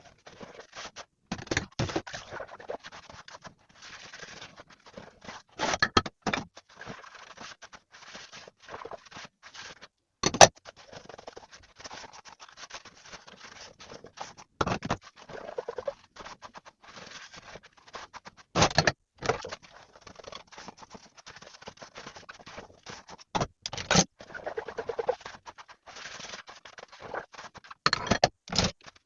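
Dishes being washed by hand: irregular scraping and scrubbing, broken by sharp clinks of crockery, the loudest about ten seconds in, with short squeaks twice.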